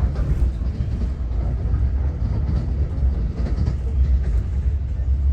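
Steady low rumble of a double-decker commuter train running along the track, heard from inside a lower-deck coach.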